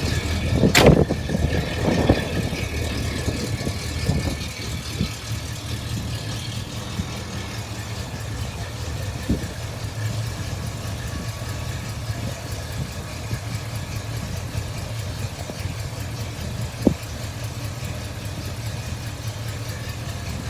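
1981 Camaro Z28's V8 running through its exhaust, with a brief louder swell and a sharp pop or click about a second in, then settling to a steady, even idle.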